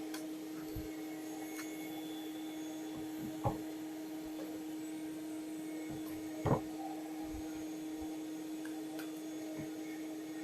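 Beekeeping vacuum's motor running with a steady hum, kept going to keep the captured bees cool. Two short knocks sound about three and a half and six and a half seconds in.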